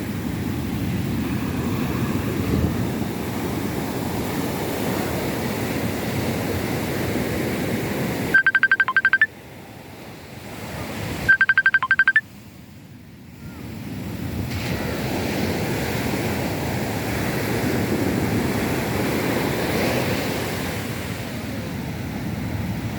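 Sea surf washing onto a beach, a steady rushing of waves. About eight seconds in, and again three seconds later, a short burst of rapid, high electronic beeping cuts in, louder than the surf, and the surf sound drops away for a few seconds after each.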